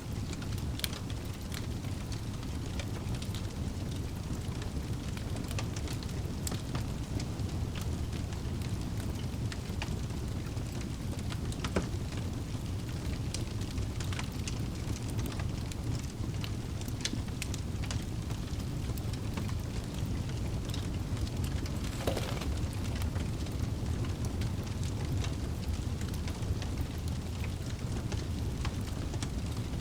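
Wood fire burning in a fireplace: a steady low rush of flames with scattered sharp crackles and pops from the burning logs, one louder pop about 12 seconds in.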